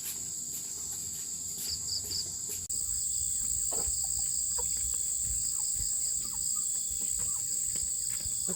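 Insect chorus, crickets chirring in a steady high-pitched drone. It briefly drops out about two and a half seconds in, then carries on slightly louder. A few faint knocks can be heard beneath it.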